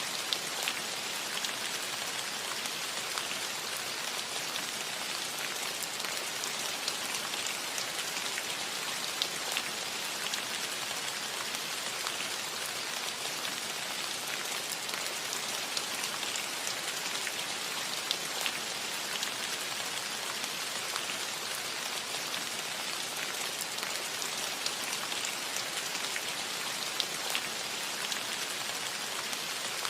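Steady rain falling on a metal roof: an even hiss with scattered sharper ticks of single drops striking the metal.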